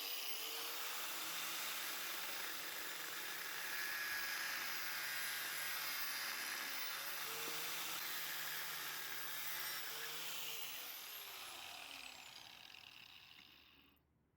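High-speed electric power tool running steadily with a dense, hissing whine, then switched off about ten seconds in and spinning down over the next few seconds.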